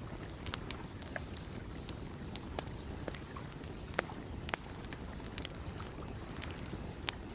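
Campfire crackling, with irregular sharp pops scattered over a steady low wash of lake water.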